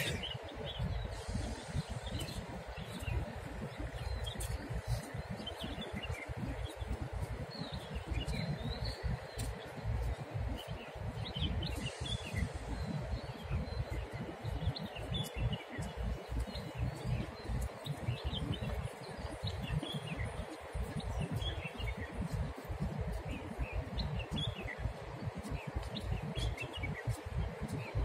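Small birds chirping, many short calls scattered throughout, over a low, constantly fluctuating rumble.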